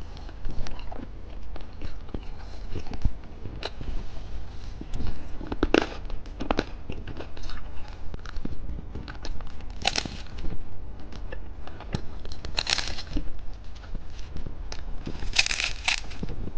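Plastic candy packaging being handled: wrappers crinkling and tearing, with many small clicks and a few louder crinkling bursts.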